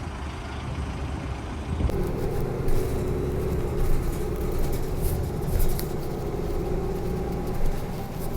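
Road vehicle engine running steadily with a low rumble. About two seconds in, a steady hum and a higher hiss join it.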